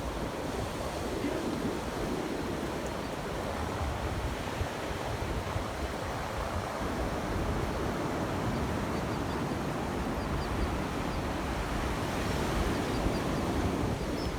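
Ocean surf breaking and washing on the shore, with wind rumbling on the microphone.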